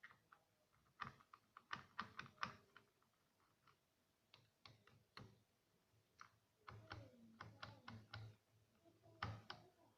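Faint scattered clicks and light plastic knocks from the induction cooker's heating coil being lifted and its wire connectors handled, in irregular clusters.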